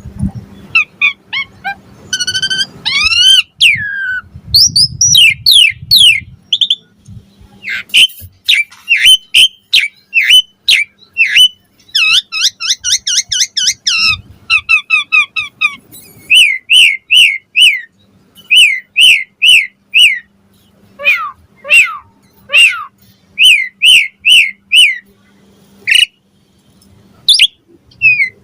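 Asian pied starling (jalak suren) singing a long, varied, loud song: whistled glides, fast chattering trills and runs of four or five repeated downslurred notes, with short pauses between phrases.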